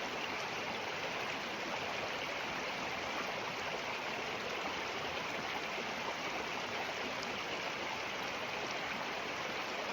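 A river rushing and splashing over rocks close by, a steady even wash of water noise.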